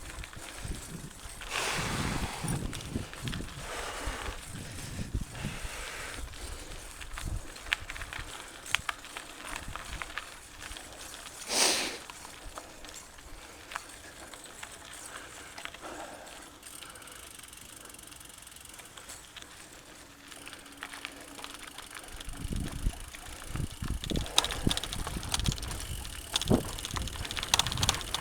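Mountain bike riding over a rough dirt trail: tyres rumbling, with irregular rattles and knocks from the bike. There is one louder hit about halfway through, then a calmer stretch, and the rattling grows busier and louder near the end.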